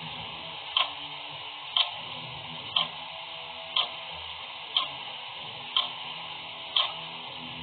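Clock ticking steadily, one sharp tick a second, over a constant background hiss.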